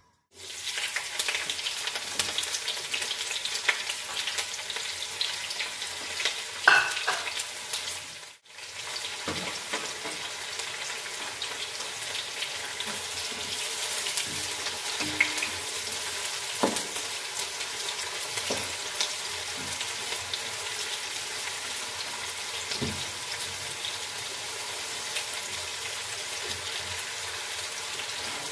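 Oil sizzling in a non-stick wok, then sliced onions frying in it with a steady hiss while a spatula scrapes and clicks against the pan. A louder knock about seven seconds in, and the sound drops out briefly at about eight seconds.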